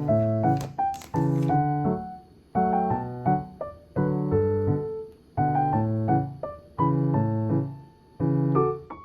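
Background piano music: soft chords struck about every second and a half, each fading before the next.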